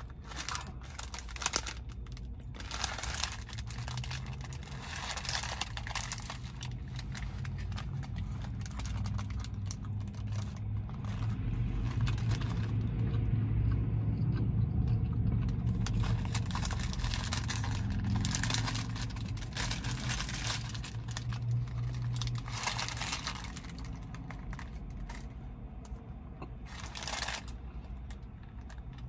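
Close-miked chewing of a toasted sourdough burger and the crinkling of its paper wrapper, in short bursts. Under it a low rumble from outside through the open car windows swells in the middle and fades again.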